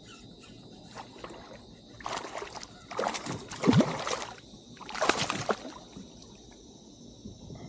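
A hooked fish splashing and thrashing at the water's surface beside a kayak as it is reeled in, in three bursts about 2, 3 and 5 seconds in.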